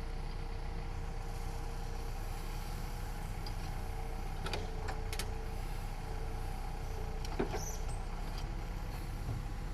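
Heavy diesel engine running steadily, with a few sharp knocks about halfway through and a louder knock near the end.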